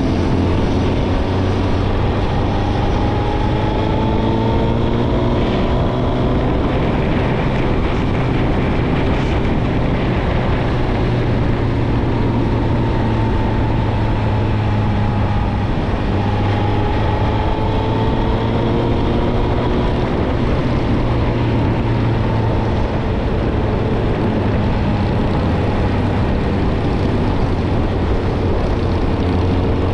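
Suzuki GSX-R1000's inline-four engine running through a Yoshimura Alpha exhaust while riding gently. The engine note rises and falls slowly and smoothly with the throttle, at moderate revs.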